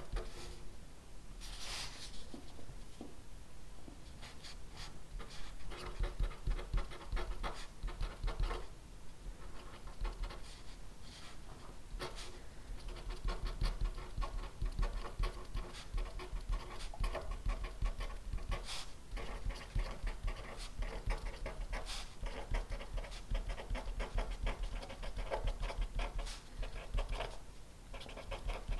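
Pen writing on paper: a continuous run of quick, irregular scratching strokes, with brief pauses about a third of the way in and near the end.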